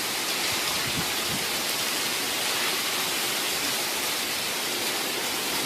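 Steady, even hiss of heavy rain falling during a thunderstorm.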